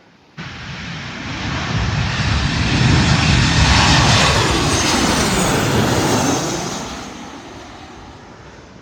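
Jet airliner passing close by on arrival: its engine and airframe noise cuts in suddenly, swells to a loud peak over a few seconds, then fades away.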